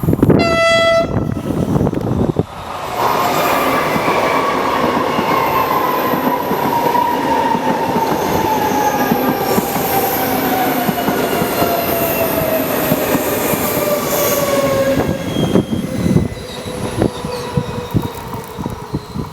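An electric train sounds a short horn blast, then runs past loudly. A whine in its running gear falls steadily in pitch for about thirteen seconds as the train slows for a speed restriction. Near the end the wheels knock over the rail joints.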